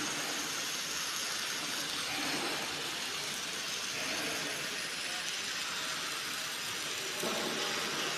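Electric arc welding: the arc gives a steady hiss that holds without a break.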